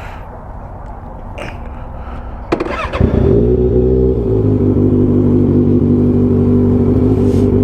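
Kawasaki ZX-6R 636 inline-four engine starting: a low rumble, then about two and a half seconds in the engine fires and jumps in level. It settles within a second or so into steady, even running.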